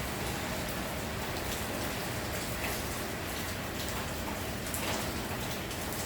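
Steady rain falling, a constant hiss with scattered drops pattering on a surface.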